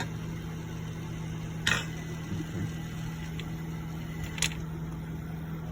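A steady low electrical hum, with two short sharp clicks about three seconds apart.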